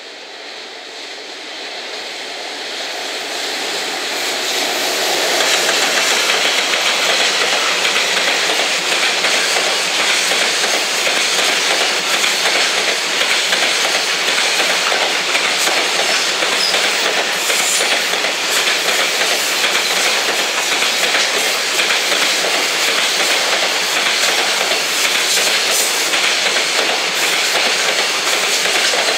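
Container freight train hauled by an EF210 electric locomotive passing close by. The noise rises over the first five seconds or so as the train arrives, then holds steady as the container wagons roll past, with the wheels clicking over the rail joints.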